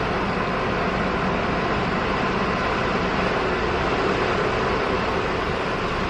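Automatic car wash rinse: water spraying against the car, heard from inside the cabin as a loud, steady hiss.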